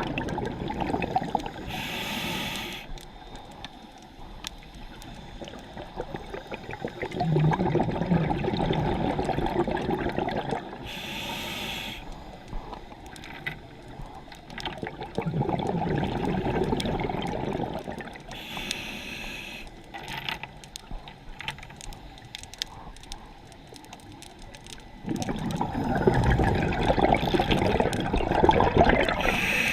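Scuba diver breathing through a regulator underwater: a gurgling rush of exhaled bubbles lasting a few seconds, then a short hiss of inhalation, repeated about four times at a slow, even pace.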